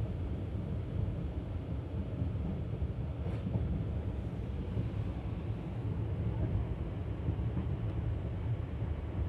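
Passenger express coach running at speed: its wheels rolling on the rails make a steady low rumble.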